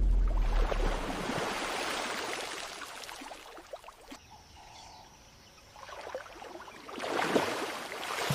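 Water splashing and sloshing from a shoebill's hunting strike into shallow water. It fades away over the first few seconds and rises again near the end.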